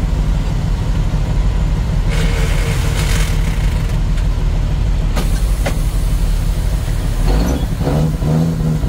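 Truck engine running steadily while driving, with a short hiss about two seconds in.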